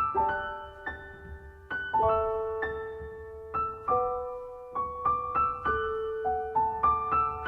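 Background music: a slow, gentle piano melody with chords, notes struck a few times a second and left to ring.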